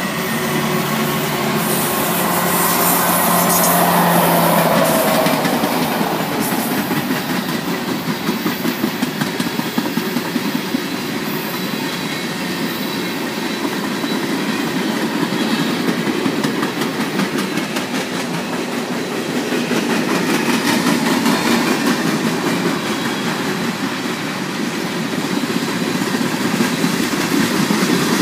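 Norfolk Southern freight train passing. The trailing diesel locomotives hum steadily in the first few seconds, then a long string of freight cars rolls by with a rhythmic clickety-clack of steel wheels over the rail joints.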